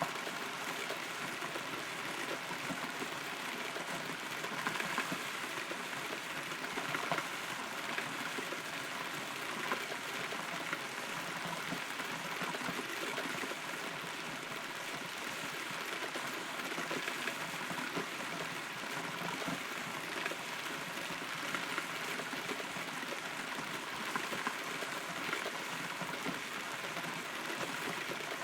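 Steady rain heard from inside a hollow rotten tree, with scattered louder drops standing out from the even hiss.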